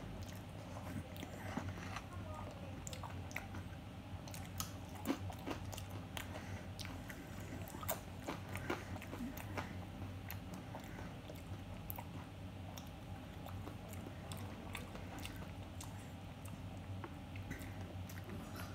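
A person biting and chewing tortilla chips from a plate of chicken nachos, with frequent short, sharp crunches.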